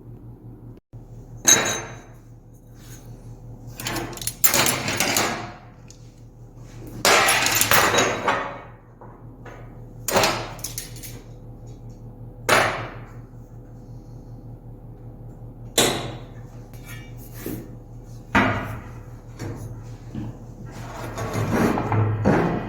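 Aluminum tubing and parts for an outboard motor stand clanking, knocking and scraping as they are handled and fitted together, in about eight irregular bursts, some sharp and some drawn out. A steady low hum runs underneath.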